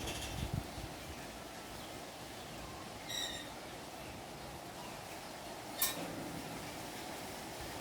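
Steady outdoor background noise with two short, high bird chirps, one just after the start and one about three seconds in, and a single sharp click near six seconds.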